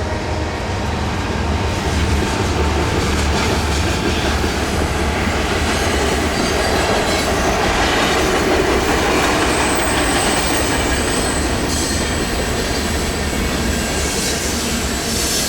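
CN freight train passing close by on a curve: the lead diesel locomotives' engines give a steady low drone under the loud rumble of wheels on the rails. About ten seconds in, a thin high wheel squeal from the curve joins in.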